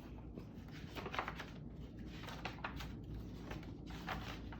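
Faint rustling and soft handling noises from a picture book being opened to its first page, over a low steady room hum.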